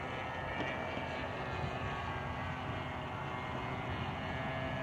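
OS .46 two-stroke model airplane engine running in flight at part throttle, a steady distant buzz as the RC plane is brought around for landing.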